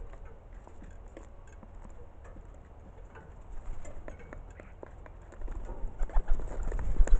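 Pigeon cooing, with scattered small taps and pattering, getting louder in the last couple of seconds.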